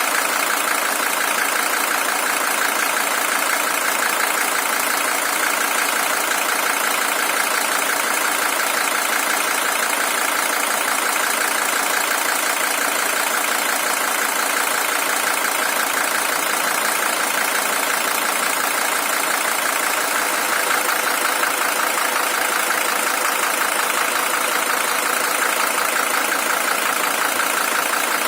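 Mercedes-Benz OM617 five-cylinder diesel engine of a W123 300TD idling steadily, with an even diesel clatter throughout.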